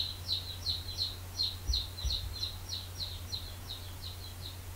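A small bird chirping over and over, about three to four short downward chirps a second, growing fainter toward the end, over a steady low electrical hum.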